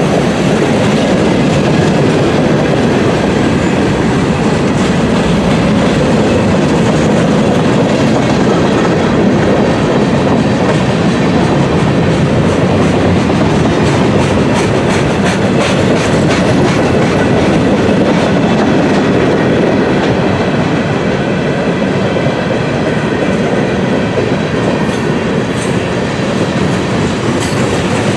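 Freight cars of a CSX freight train rolling past: a steady loud rumble of wheels on rail, with clicks and clatter as the wheels cross rail joints.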